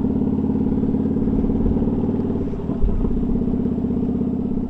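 Kawasaki motorcycle engine running at a steady pitch, with a single brief knock about three seconds in.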